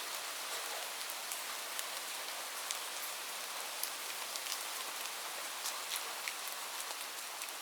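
Light rain falling steadily, a soft even hiss with many separate drops ticking sharply on a nearby surface.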